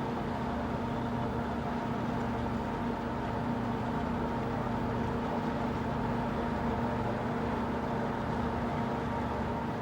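A boat's engine running steadily, a constant drone with an even hum.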